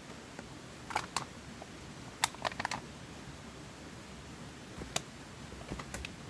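Scattered sharp snaps and clicks over a steady hiss from a campfire being built in a portable firepit: a pair about a second in, a quick cluster a second later, then a few more singly and near the end.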